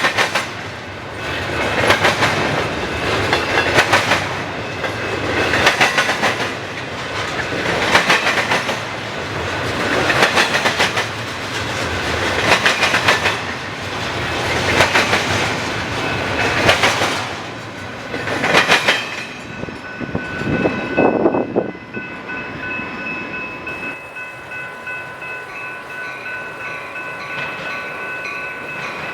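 A train rolling past, its wheels clattering over the rail joints in a regular surge about every two seconds as each car goes by. About twenty seconds in the clatter ends, and fainter steady high tones carry on to the end.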